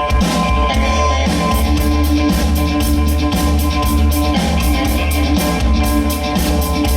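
A rock band playing live: guitar, bass and drum kit with a steady beat.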